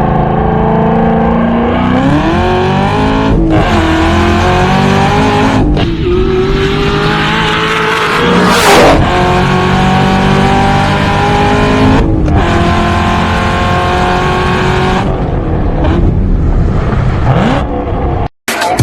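High-performance car engines revving and accelerating hard, pitch climbing and breaking off several times as the clips change. A short, loud noisy burst comes about halfway through.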